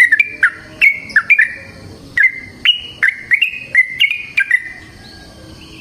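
Yellow-vented bulbul (trucukan) singing a fast run of short, bubbling, up-and-down notes, breaking off briefly about two seconds in, then going quiet about a second before the end.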